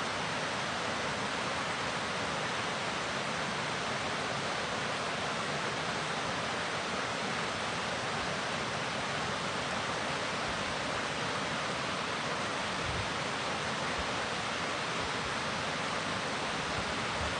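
Fast-moving water rushing steadily, an even, unbroken hiss.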